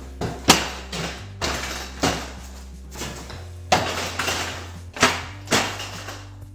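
Sharp metallic knocks and clanks, about six spread over a few seconds, each ringing briefly, as the garage door section and its rollers are worked out of the track.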